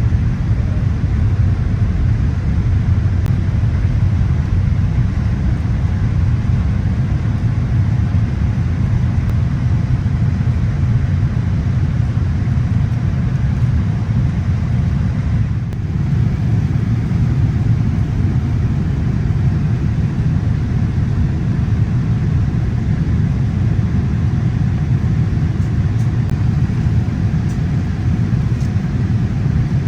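Steady, loud rumble of airliner cabin noise aboard a Boeing 787-8: engine and airflow noise, strongest at the low end, with a brief dip about halfway through.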